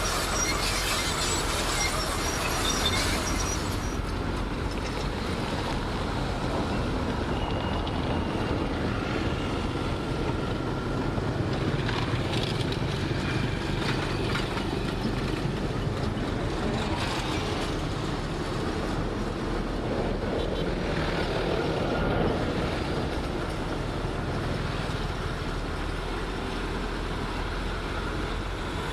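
Komatsu D58 crawler bulldozer working: the diesel engine runs steadily under the clatter of its steel tracks, with thin metallic track squeals in the first few seconds.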